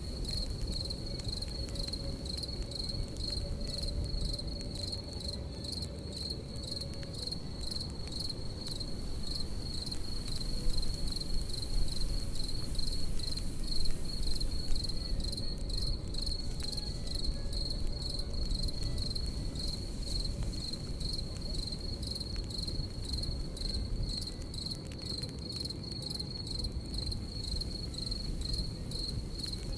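Crickets chirping throughout in a steady, rapid pulsing trill, over the low, even rush of a campfire burning.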